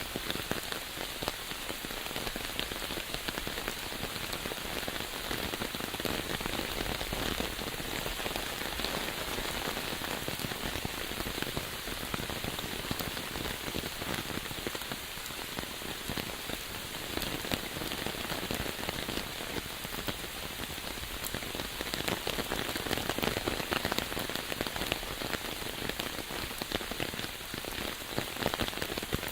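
Steady rain falling, with many individual drops striking close by as fine clicks over an even hiss.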